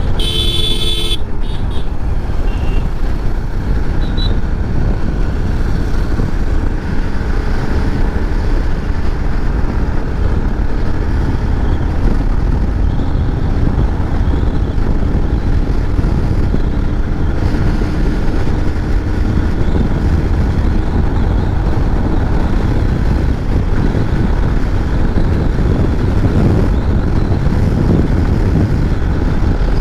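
Motorcycle riding at speed on the road: steady rush of wind over the microphone mixed with engine and road noise. A vehicle horn sounds once for about a second right at the start.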